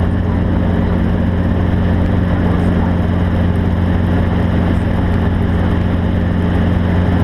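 An engine running steadily, a low, even drone with no change in pitch.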